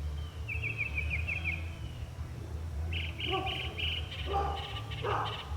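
Northern mockingbird singing: a fast trill of short notes lasting about a second, then after a pause a run of repeated notes, with harsher, lower phrases joining in over the last two seconds. A low steady rumble runs underneath.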